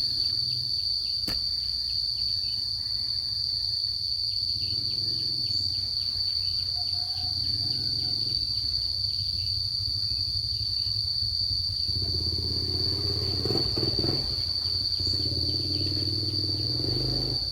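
Insects calling in one continuous, steady, high-pitched drone, over a low hum.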